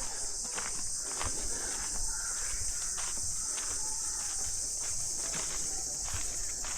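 Steady, high-pitched chorus of forest insects, with footsteps on a forest path at a walking pace.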